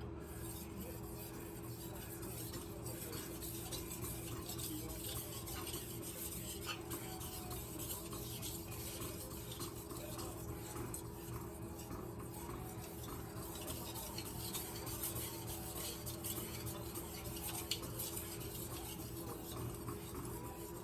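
Kitchen knife blade stroked back and forth across a wet whetstone, making a string of short scraping strokes.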